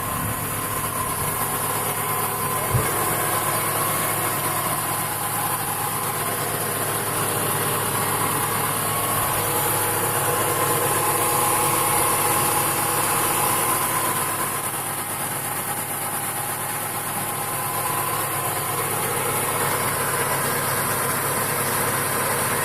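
Car engine with about 70,000 km on it idling steadily and evenly, with one sharp click about three seconds in.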